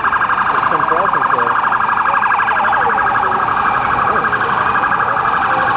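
Emergency vehicle siren sounding in a fast, rapidly pulsing warble, with other sirens wailing slowly up and down behind it.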